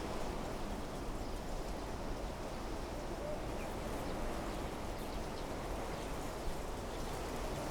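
Wind blowing steadily through trees, a low even rushing, with a few faint short high chirps scattered through it.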